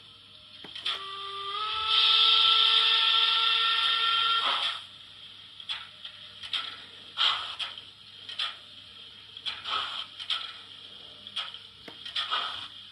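TT-scale model train running on the layout: a steady pitched tone, rising slightly, sounds for about four seconds near the start, followed by irregular small clicks and rattles of wheels over the track.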